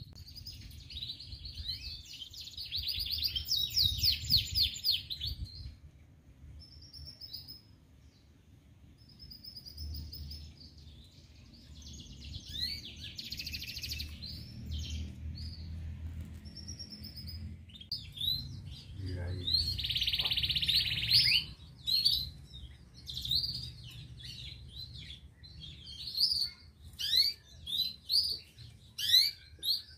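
Canary singing in bursts of rapid trills and chirping phrases with short pauses, a long dense trill about twenty seconds in and quick separate chirps near the end. A faint low hum runs underneath.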